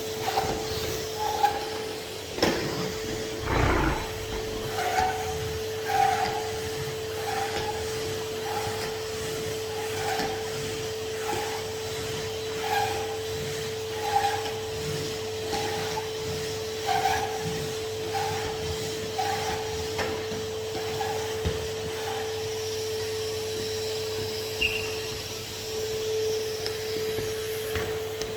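Henry HVR200 620 W tub vacuum cleaner running steadily with an even motor hum. Over it come repeated short rubbing strokes, roughly one a second, as the tool is worked over a surface, and a couple of knocks a few seconds in.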